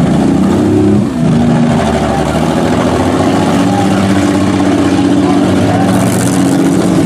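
Several demolition-derby minivan engines running and revving at once, their pitches rising and falling, with a short high hiss near the end.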